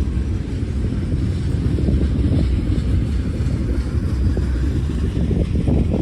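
Heavy wind buffeting on the microphone over the low rumble of a moving Norfolk Southern freight train.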